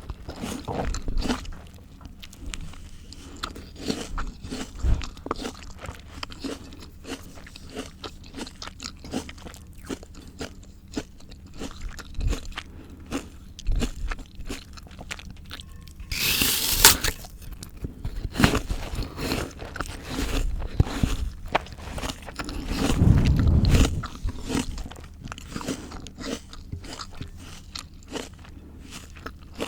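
A person bites and chews crisp raw fruit and vegetables close to the microphone, with steady wet crunching chews. One loud, sharp bite comes a little past halfway, and a heavier, low-pitched crunch or thump follows about three-quarters of the way through.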